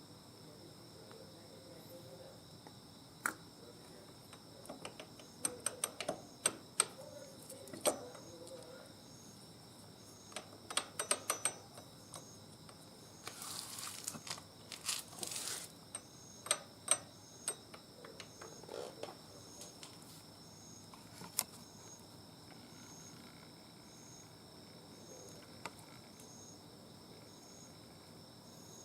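Insects chirping steadily in a high, even trill, with a pulsing chirp about once a second in the second half. Over it come scattered sharp clicks and taps, and two brief hissy rustles near the middle.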